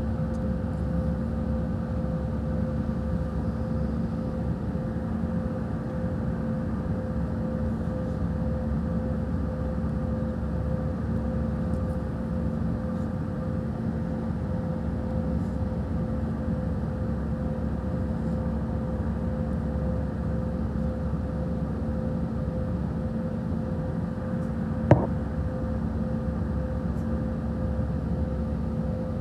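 Steady airliner cabin noise in flight: the deep, even rumble of the engines and airflow with a constant hum. A single sharp click near the end.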